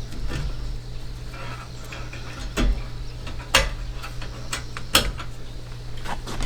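A series of sharp clicks and knocks from objects being handled, the three loudest about two and a half, three and a half and five seconds in, over a steady low hum.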